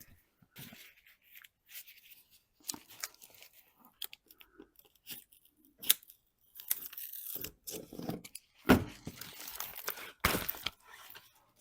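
A sheet of sound deadener being handled and worked: irregular crinkling and tearing noises, with two louder rips in the second half.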